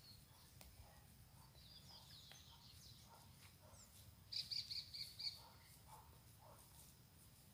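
A bird chirping, loudest in a quick run of about five high chirps a little past the middle, with fainter chirps before it. Under it, faint soft squishing of hands kneading wet dough fishing bait in a plastic tub.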